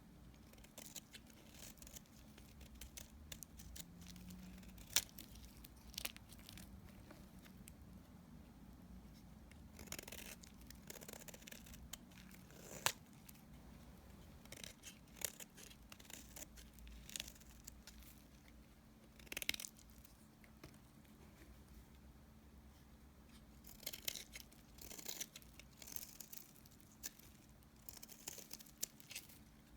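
Knife cutting through leftover pieces of dry bar soap: scattered crisp clicks and short crackling scrapes, a few sharp snaps standing out, the crackling coming thicker near the end.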